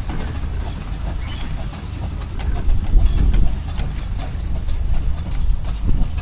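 Steam engines running in a parade: a low rumble with irregular clanks and ticks, swelling about halfway through.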